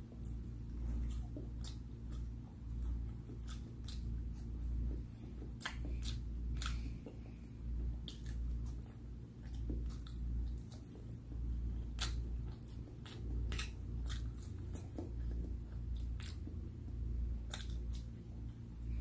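Close-miked chewing: a person eating, open-mouthed and slow, with wet mouth clicks and lip smacks about once a second.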